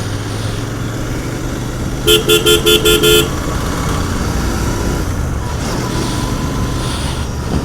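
Steady running noise of a Royal Enfield Continental GT 650 on the move, its parallel-twin engine mixed with road and wind noise. About two seconds in, a vehicle horn sounds six quick toots over about a second.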